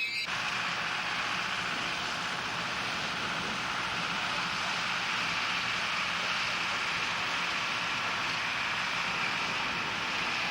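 Steam locomotive standing and letting off steam: a steady hiss at an even level that cuts off abruptly at the very end.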